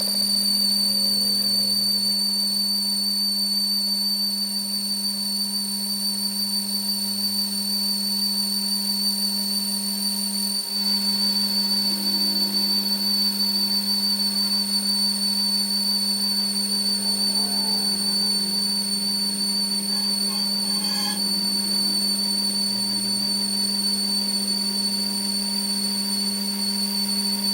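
A machine running steadily: a constant high-pitched whine over an even low hum.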